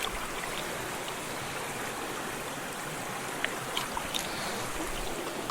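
Steady rushing flow of stream water, with a few faint clicks a little past the middle.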